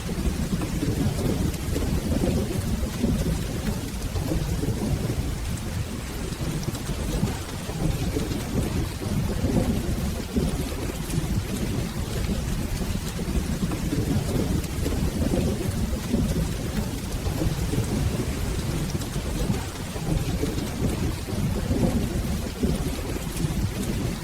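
Steady rain with a low, continuous rumble of rolling thunder underneath.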